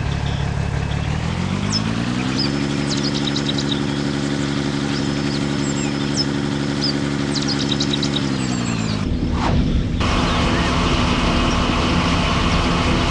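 Vehicle engine sound effects. An engine revs up about a second in, holds a steady higher pitch, then drops back about nine seconds in. It runs on at a steady idle that starts to rise again near the end, with short high chirps over the first part.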